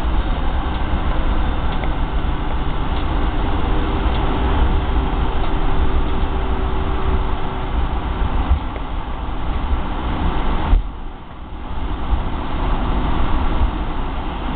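Loud cabin noise in a Boeing 757-200 on its landing run: engine noise and a deep rumble. About eleven seconds in, a short knock is followed by a sudden drop in the noise, which then builds again.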